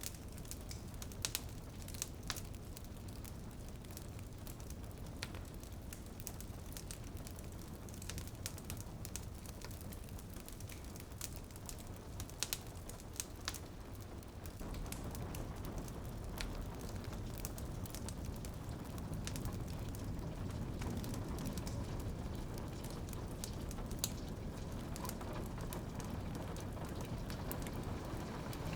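Fireplace wood fire crackling with scattered sharp pops over a steady hiss of rain on a window. The steady rain sound grows louder about halfway through.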